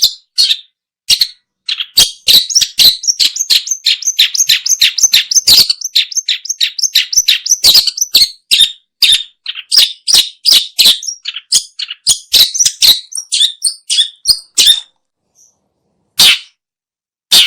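Long-tailed shrike calling: a rapid chatter of short, sharp notes, about five a second at its densest, that thins into spaced single notes, pauses briefly and starts again near the end.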